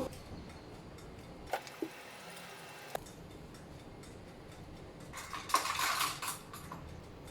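Kitchenware being handled: a few light knocks and clinks, then a louder clatter lasting about a second and a half, starting about five seconds in.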